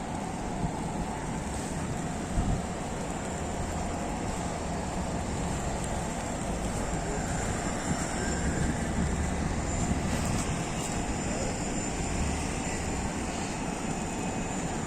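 Steady outdoor city ambience in a snowstorm: a constant rushing noise with a low vehicle hum underneath and no distinct single event.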